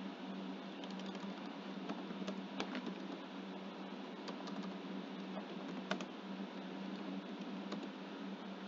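Scattered clicks of computer keyboard keys being typed, irregular and sparse, over a steady low hum.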